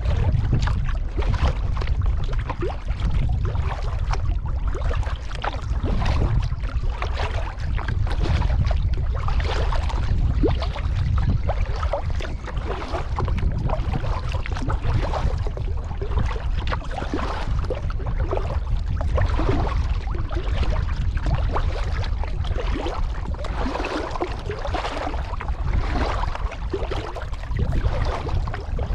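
Water splashing and dripping around a kayak as it is paddled, in many small irregular splashes over a steady low rumble.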